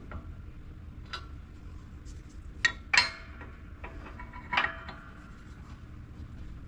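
Metal parts knocking together: a few sharp metallic clinks and clanks with a short ring, the loudest a pair close together in the middle, over a low steady hum.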